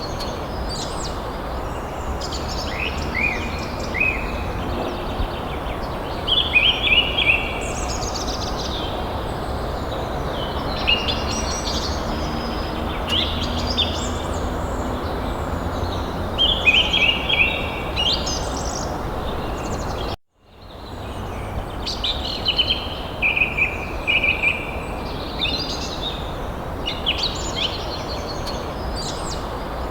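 Small birds chirping and twittering in quick, overlapping calls over a steady low background rumble. The sound cuts out abruptly for a moment about two-thirds of the way through and fades back in.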